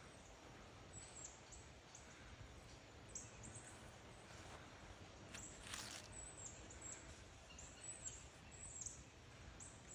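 Quiet outdoor background with faint, short, high-pitched bird chirps repeating every half second or so, and a brief rustling noise about six seconds in.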